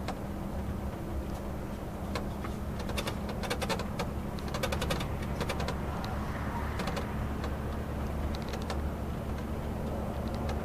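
Mercedes-Benz O500 RSD coach's diesel engine running with a steady low drone at an even pitch. Bursts of rapid light clicking come in the middle.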